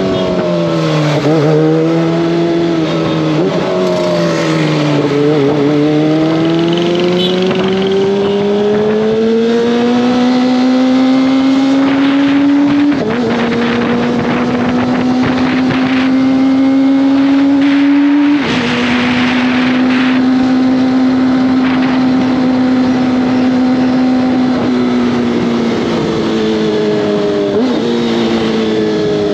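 Kawasaki ZX-25R's 250 cc inline-four engine and exhaust under way. The revs dip and climb at first, then rise steadily, with two upshifts about 13 and 18 seconds in, each a sudden small drop in pitch. The engine holds steady cruising revs, then slows near the end with quick rises in pitch as it downshifts.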